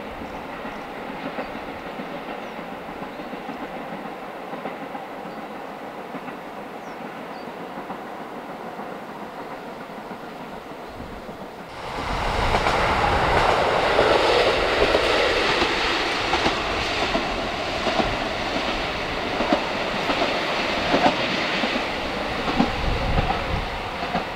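Diesel train on the line, fairly faint at first, then suddenly much louder about halfway through as it passes close by, with a run of wheel clicks over the rail joints near the end.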